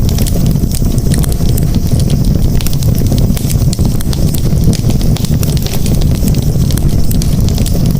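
Wood campfire crackling: frequent sharp pops and snaps over a steady low rumble.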